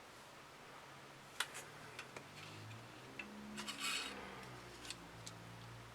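Faint, scattered light clicks and taps of small hard objects being handled, with a short rustle near the middle, over a faint low hum.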